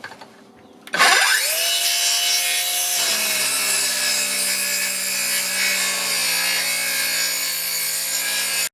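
Electric saw starting up, its motor rising quickly in pitch, then cutting through wood with a steady loud whine that drops a little in pitch as the blade takes the load; it cuts off abruptly.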